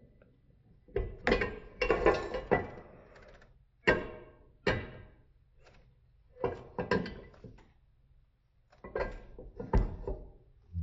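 Handling knocks and clatter as a die-cast model airliner is fitted onto its display stand: about eight separate groups of taps and thunks with quiet gaps between, slowed to 0.4x speed so they sound low and drawn out.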